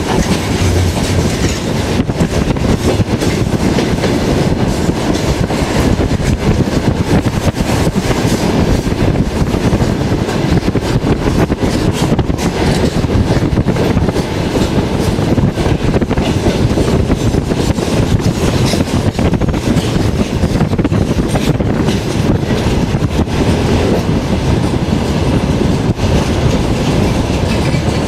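Running noise of a moving passenger train heard from a carriage window: a loud, steady rumble with constant clatter of the wheels on the rails.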